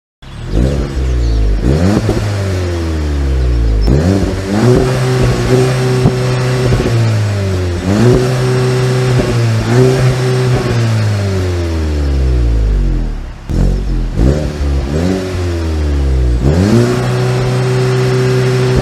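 Supercar engine revved repeatedly while standing, starting about a quarter second in. The revs climb quickly and sometimes hold steady at high rpm for a second or two before falling back. There are about nine throttle blips in all, with a short dip in level near two-thirds of the way through.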